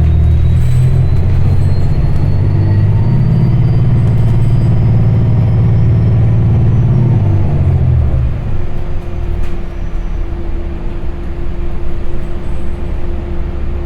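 MBTA transit bus's engine and drivetrain heard from inside the passenger cabin while under way: the engine note climbs as the bus accelerates, then drops away about eight seconds in and settles to a lower, lighter run with a steady whine.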